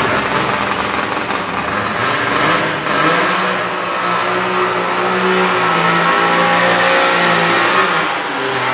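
Turbocharged diesel pickup truck engine running hard at high revs during a sled pull. The pitch holds steady for several seconds and then drops near the end.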